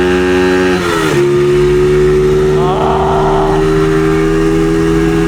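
Dirt bike engine running at steady high revs. About a second in it drops sharply in pitch, then holds steady at the lower pitch.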